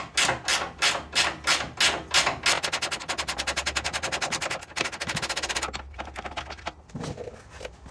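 Ratchet wrench clicking as bolts are backed out of a wood chipper's discharge chute. It clicks at a few strokes a second, then runs into a fast rattle of about a dozen clicks a second for about three seconds, then fades to a few scattered clicks.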